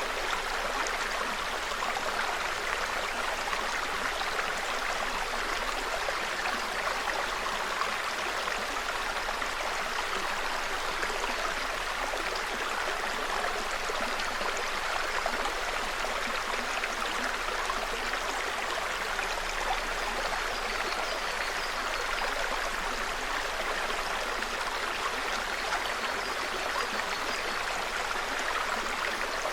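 A small mountain brook babbling steadily: an even, unbroken rush of running water.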